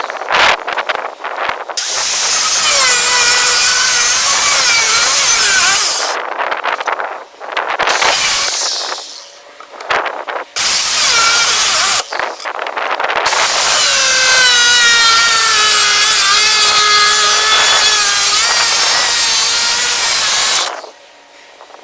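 A power tool working steel in several stop-start runs of a few seconds each, shrill and noisy with a wavering whine. The longest run comes near the end, its pitch sagging a little as the tool bears down.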